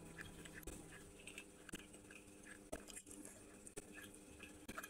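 Faint chewing and wet mouth sounds of a person eating a soft syrup-soaked sweet, with a few small clicks scattered through.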